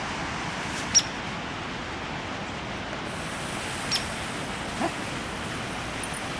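Steady outdoor hiss broken by a few short sounds: a sharp tick about a second in, another near four seconds, and a fainter, lower sound just before five seconds.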